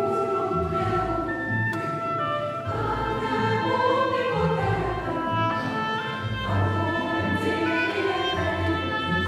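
Classical music from a chamber orchestra and mixed choir performing a setting of the Mass: strings hold sustained chords with voices blended in.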